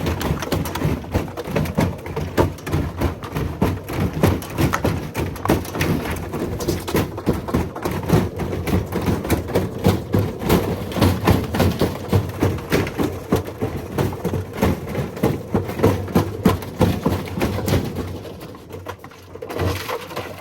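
A brick thrown around inside a Hotpoint 1600 rpm washing machine's drum on spin, banging hard and fast against the drum and cabinet in a continuous racket. Near the end the bangs thin out and fade as the drum slows.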